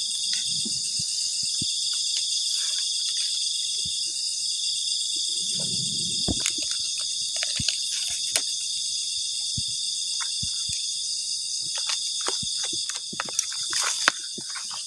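Steady high-pitched chorus of forest insects, with scattered clicks and scrapes from a spoon stirring eggs in a cooking pan.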